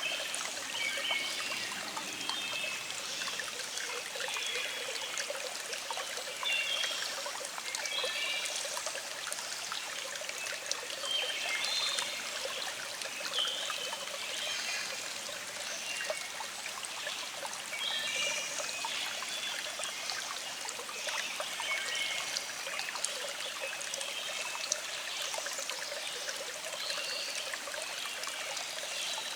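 Little stream flowing, a steady trickle of water with small gurgles.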